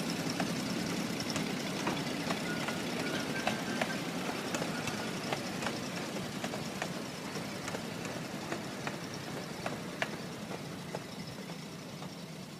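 Small ride-on train running and moving away, a steady rumble fading gradually with scattered sharp clicks.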